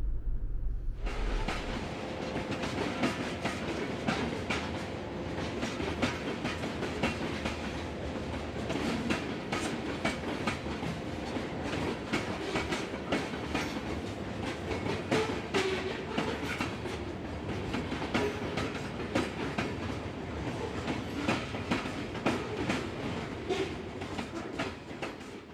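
Train rolling past, its wheels clacking over rail joints in a steady run of clicks.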